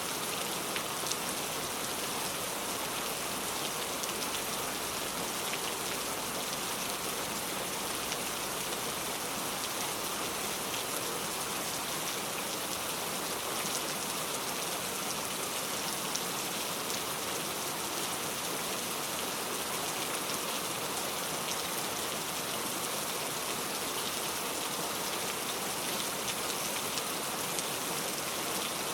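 Heavy rain falling steadily, an even hiss of drops with fine pattering on surfaces.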